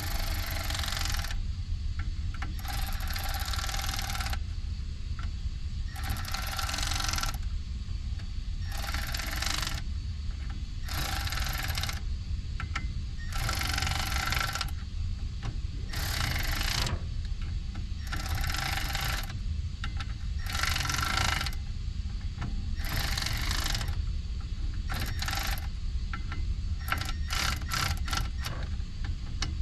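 A ratchet run in repeated strokes, tightening the small 1/4 inch bolts on a Haldex air dryer. There are about a dozen strokes, each a second or so long and coming about every two seconds, then a quick flurry of clicks near the end, all over a steady low hum.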